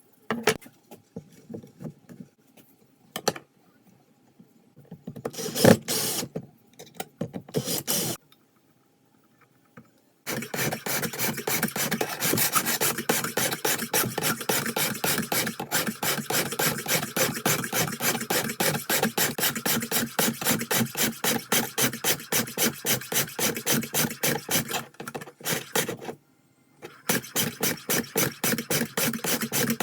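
Rapid back-and-forth strokes of a hand file on the steel of a knife blank cut from an old saw blade, about three to four strokes a second. A few scattered knocks and scrapes come first, and there is a short pause near the end.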